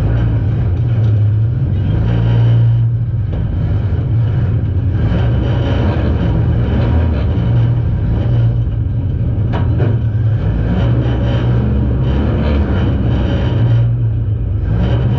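Demolition derby car's engine running loud and steady inside the car's stripped cabin, its pitch rising and falling a little with the throttle.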